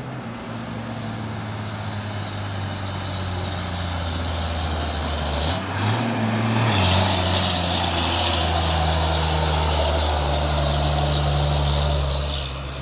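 Heavy diesel truck engine running hard under load, growing louder as it nears; about six seconds in the revs briefly rise, then drop back.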